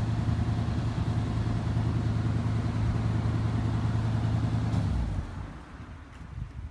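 Vehicle engine running steadily with a low drone, which drops away sharply about five seconds in.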